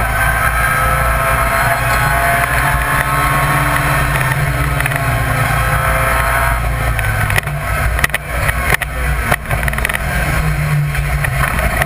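BMW Compact rally car's engine heard from inside the cabin, running hard under load with its pitch climbing. About two-thirds of the way through there are several sharp knocks and brief drops in the engine sound.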